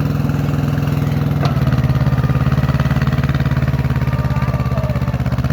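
Tractor diesel engine running with a steady pulsing beat. About a second and a half in there is a click, and the engine note drops and pulses more heavily, as if it has come under load.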